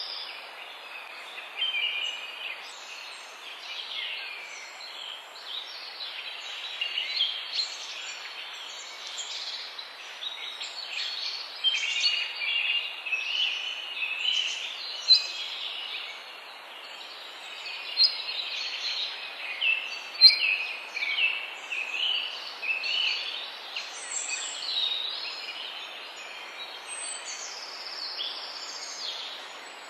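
Many songbirds singing and calling over one another in a dense chorus of chirps, trills and whistles, over a steady background hiss.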